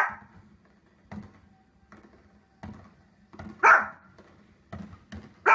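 A dog barking: three loud, sharp barks, one at the start, one past the middle and one at the end, with fainter short sounds between them.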